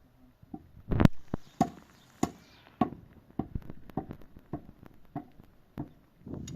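A tool striking wood over and over, about one blow every 0.6 seconds, starting about a second in; the first blows are the loudest.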